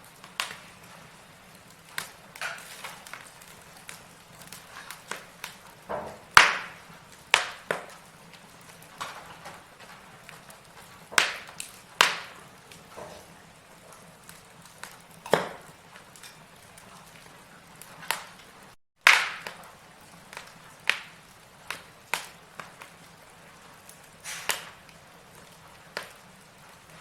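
Wood fire in a fireplace crackling: burning logs giving off irregular sharp pops and snaps, a few of them much louder, over a faint hiss. The sound cuts out for a split second about two-thirds of the way in.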